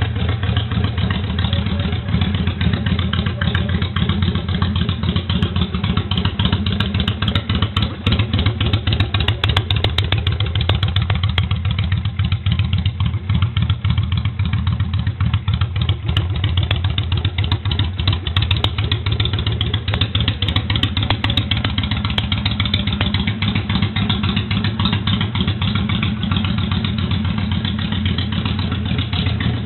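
Yamaha XV535 Virago's air-cooled V-twin engine idling steadily.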